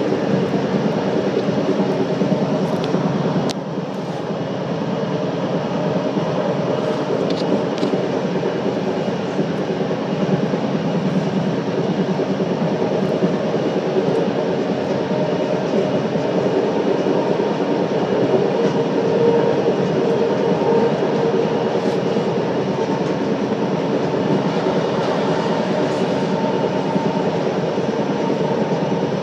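Scarborough RT train, a linear-induction-motor light metro car, running along its track: steady rail running noise with a hum of several steady tones. It dips briefly about three and a half seconds in.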